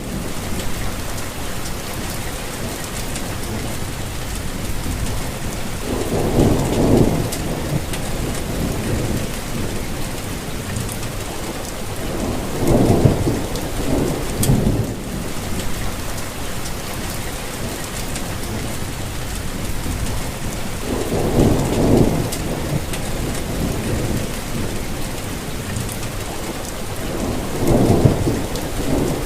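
Steady rain falling, with four short, low rumbles swelling up and fading every several seconds.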